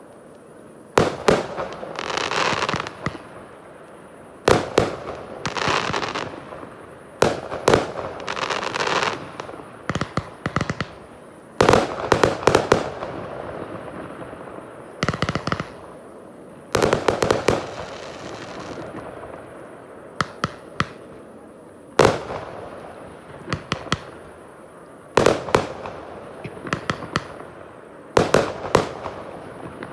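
Fireworks display: aerial shells bursting with sharp bangs every couple of seconds, most followed by a second or two of crackling, with some quick volleys of small pops in between.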